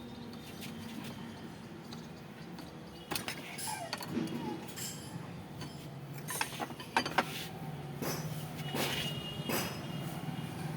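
Metal tools and parts clinking and knocking, with a scattering of sharp clinks from about three seconds in and the loudest pair about seven seconds in, over a steady low hum of a running vehicle engine.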